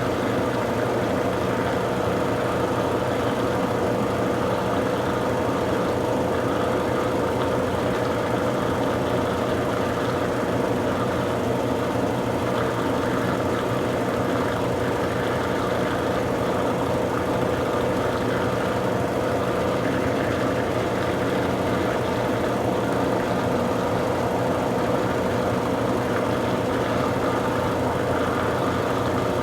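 Consul Super Cargo 8 kg (CWL08C) top-loading washing machine spinning a load of towels: a steady motor hum with a strong even tone. The machine is shaking and jumping from an unbalanced load.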